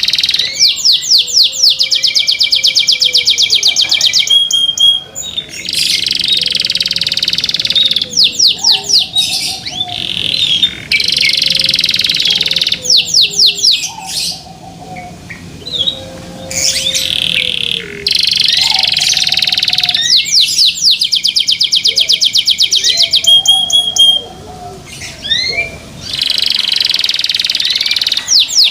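Domestic canary singing loudly: long phrases of rapid trills and rolling notes, broken by short pauses every few seconds.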